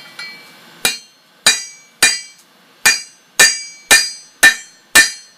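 Blacksmith's hammer striking steel on an anvil: about eight ringing metallic blows, starting about a second in and coming roughly two a second.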